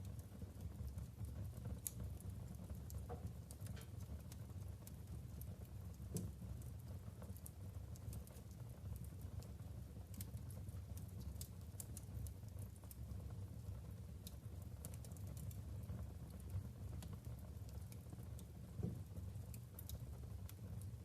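Wood fire burning in a fireplace: irregular small crackles and pops from the burning logs over a steady low rumble of the flames.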